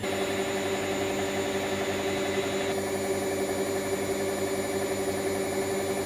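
Hoover Wizard washer dryer spinning at high speed: a steady motor whine over the rushing of the drum.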